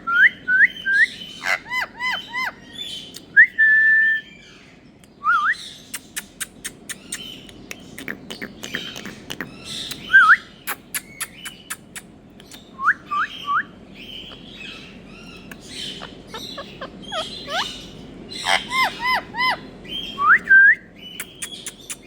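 Indian ringneck parrot whistling and chirping: short rising whistles in quick runs of three or four, mixed with higher chirps and sharp clicks.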